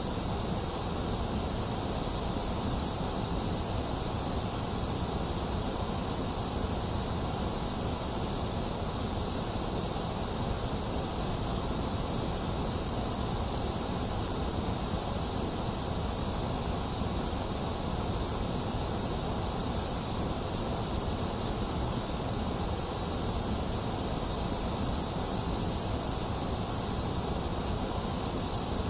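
Box fan running mixed with falling rain: a steady, unbroken hiss with no sudden sounds.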